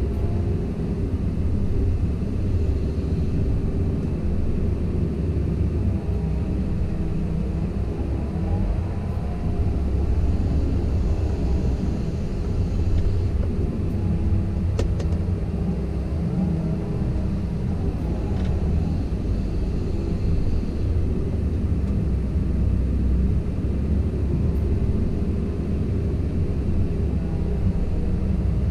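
Komatsu PC170LC-10 excavator's diesel engine running steadily under load. The hydraulic whine rises and falls in pitch as the machine works, with a sharp click about halfway through.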